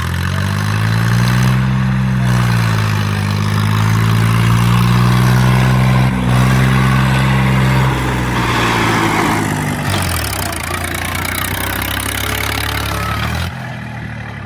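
Eicher 333 tractor's three-cylinder diesel engine revving. The pitch climbs in the first second or so, dips briefly, then holds high for several seconds. About ten seconds in it drops to a lower steady speed, and it falls away near the end.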